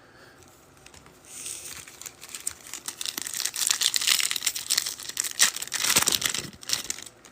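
Trading card pack wrapper crinkling and crackling as it is torn open and handled, starting about a second in and loudest in the second half.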